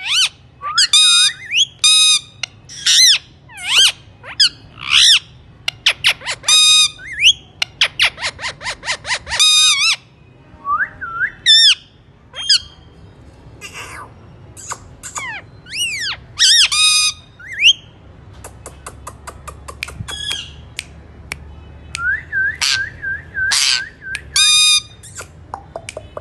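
Alexandrine parakeet calling: loud, harsh squawks, one after another, some with quick rising glides. There is a fast run of short calls about four a second in the middle, and a briefly held note near the end.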